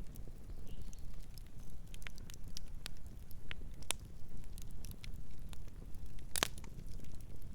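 Campfire crackling: irregular sharp pops and snaps over a steady low rumble, with one louder pop about six seconds in.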